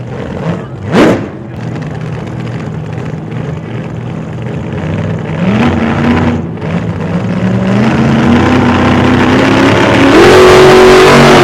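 A vehicle engine revving, its pitch stepping up and holding several times and growing louder toward the end, with a quick whoosh about a second in.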